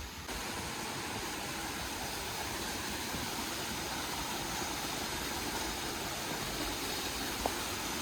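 Waterfall: a steady rush of falling water that steps up in level just after the start, then holds.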